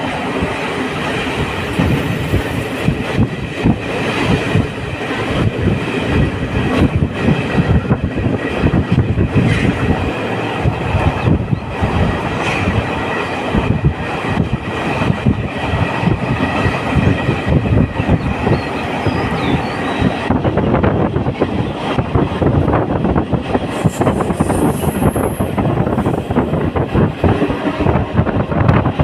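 Train running along the track, its wheels clattering steadily over the rails, with a thin, steady wheel squeal that stops about twenty seconds in.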